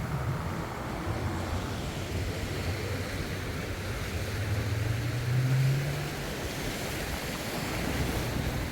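Wind buffeting the microphone in low rumbles over the steady rush of surf, with a louder gust about five seconds in.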